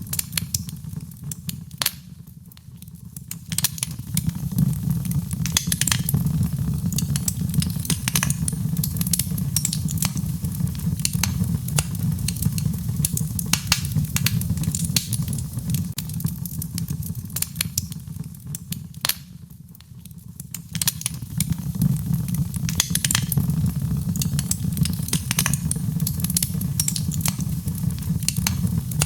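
Wood fire in a fireplace crackling and popping with many sharp irregular snaps, over a steady low rumble. The sound dips briefly twice and swells back.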